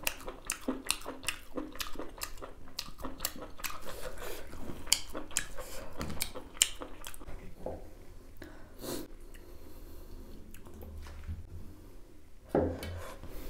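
A person chewing beef tripe, with quick mouth clicks about two or three a second at first, growing sparser and quieter about halfway through.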